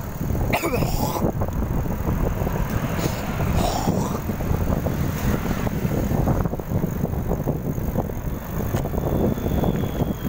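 Steady rumbling road and wind noise while riding a bicycle along a road, with traffic around. A few brief higher-pitched sounds come in the first few seconds.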